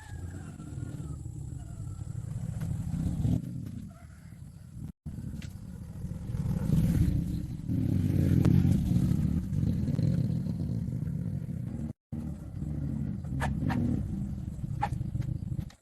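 An engine running, heard in three edited stretches separated by abrupt cuts about five and twelve seconds in, with a few light clicks near the end.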